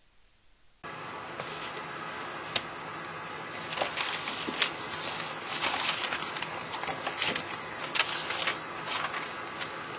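Near silence for about a second, then a steady hiss under paper rustles and soft clicks as a spiral notebook is handled and its pages turned. The rustling is busiest in the second half.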